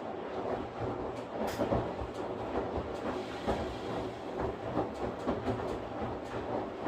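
Washing machine running, its drum churning with a steady rumble and frequent irregular knocks and rattles.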